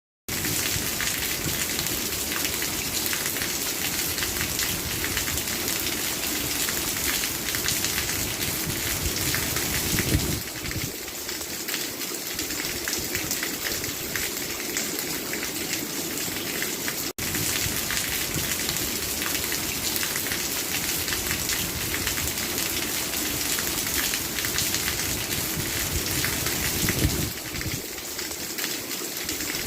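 Steady heavy rain falling, an even dense hiss of drops on surfaces. It cuts in sharply just after the start and drops out for an instant about seventeen seconds in.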